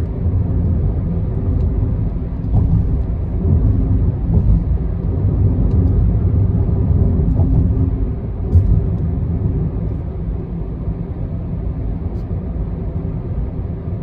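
Steady low rumble of a car driving at speed on an expressway: tyre and engine noise, with a few faint clicks.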